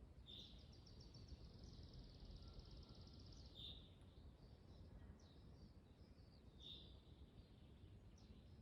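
Faint low wind rumble under small songbirds singing: a sharp note opening a rapid trill that lasts about three seconds, then further short high calls every few seconds.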